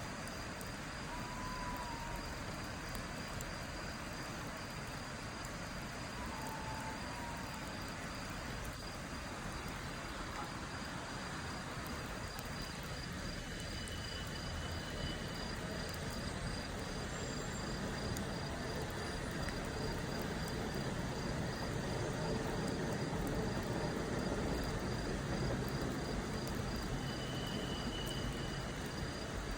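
Night insects, crickets, trilling steadily in a fine rapid pulse over a constant rushing hiss, with a few short higher chirps scattered through.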